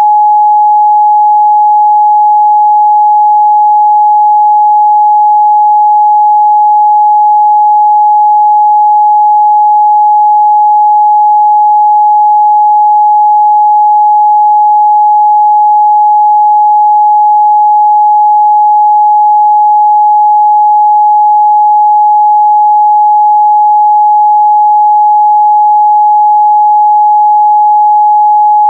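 Steady, loud 841 Hz pure sine-wave test tone, one unchanging pitch with nothing else.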